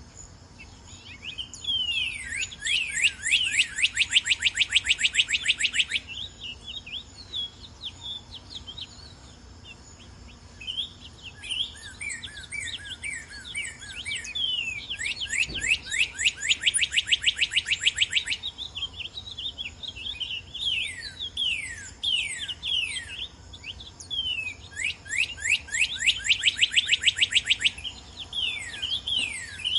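Northern cardinal singing: three long phrases of rapidly repeated downslurred whistles, each lasting a few seconds, with slower slurred notes between them.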